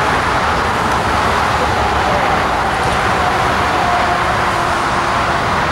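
Four CFM56 turbofan engines of an Airbus A340-300 on landing approach: a steady jet roar with a faint whine that sinks slightly in pitch.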